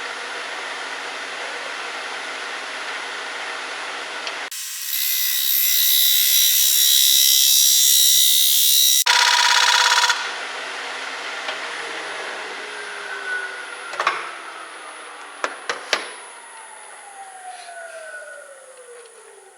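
Grizzly wood lathe turning a spalted oak bowl while a square carbide cutter shears the outside, with loud scraping in the middle of the stretch. About ten seconds in the cutting stops and the lathe winds down, its whine falling steadily in pitch, with a few knocks along the way.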